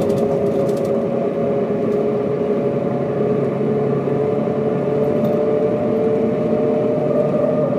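1995 Mercedes-Benz O407 bus driving at a steady speed, its engine and drivetrain running with a steady whine that rises slightly in pitch partway through.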